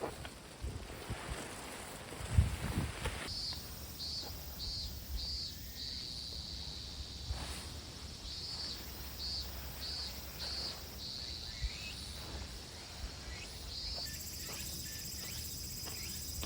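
Insects chirping outdoors: high-pitched pulsed chirps repeating about three times a second, joined near the end by a steady high trill. A few knocks and a sharp thump come in the first seconds.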